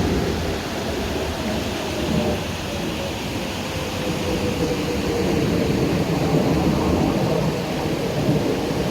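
Steady rushing of a rocky mountain stream's water, with a faint hum sliding slowly down in pitch beneath it.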